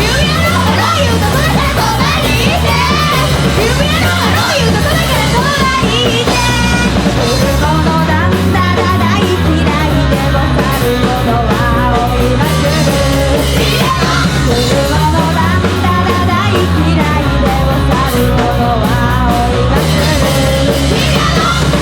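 Punk rock band playing loud, with singing over bass and drums.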